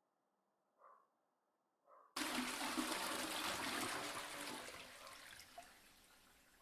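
Toilet flushing: a sudden rush of water starts about two seconds in and tapers off gradually over the next few seconds.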